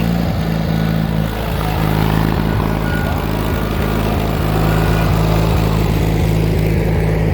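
Riding lawnmower engine running steadily, its pitch stepping slightly about a second in.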